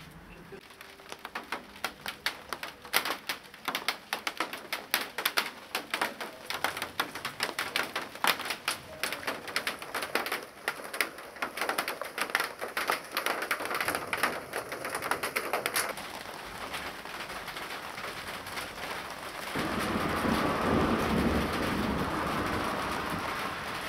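Large raindrops beginning to fall, hitting a hard surface as separate sharp taps that thicken into a dense patter and then settle into a steady rain hiss. About four seconds before the end, a louder, deeper rumbling noise sets in over the rain.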